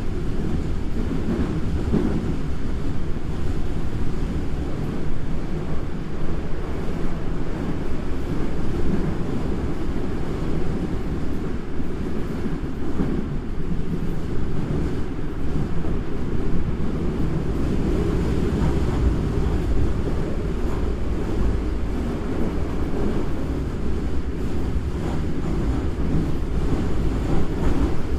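Toei Asakusa Line 5300-series subway train running at a steady speed, heard from inside the car: a continuous low rumble of wheels on rail with no rising or falling motor pitch.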